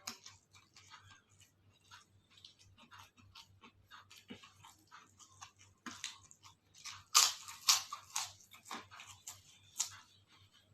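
A person chewing and crunching crisp food close to the microphone, with a run of louder crunches about two-thirds of the way through.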